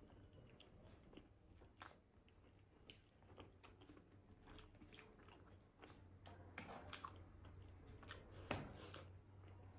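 Faint close-miked chewing of a mouthful of steamed momo dumpling with achar: soft, scattered wet mouth clicks that come thicker and a little louder in the second half.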